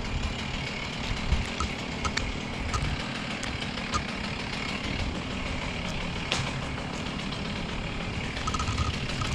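An engine idling steadily as a low rumble, with a few light clicks.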